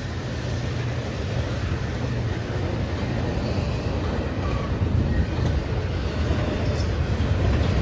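Double-stack container freight train rolling past, its wheels on the rails making a steady rumble that grows a little louder near the end.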